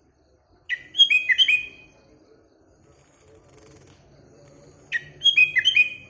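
Sooty-headed bulbul singing two short phrases of quick, downward-slurred whistled notes, about four seconds apart.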